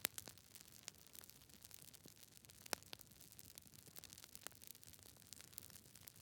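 Campfire burning: faint, irregular crackles and snaps of burning wood over a soft hiss, with sharper pops just after the start and twice near three seconds in.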